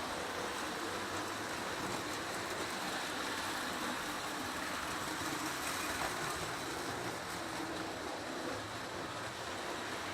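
Several model trains running at once on a test board: two O gauge Lionel loops (a 1946 Lionel 204 and a 1927 prewar tinplate Lionel), an American Flyer S gauge train, an HO double diesel and an N scale diesel. Their motors and wheels on the track make a steady, even running noise.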